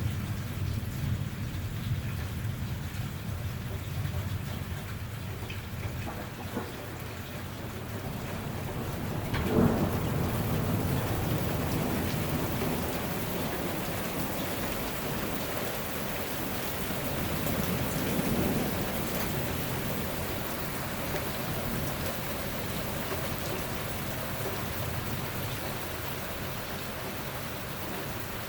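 Thunderstorm: steady heavy rain with rolling thunder, a sharp crack of thunder about a third of the way in and another low rumble swelling about two-thirds of the way through.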